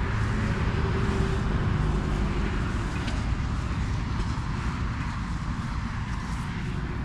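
An engine running steadily, with a low hum under a noisy rush.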